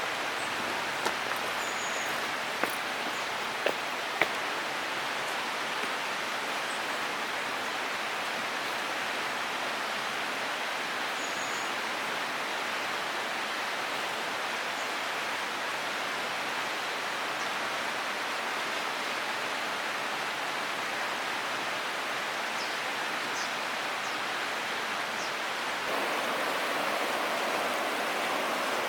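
Steady rush of flowing water, with a few sharp clicks in the first few seconds; it steps up louder near the end.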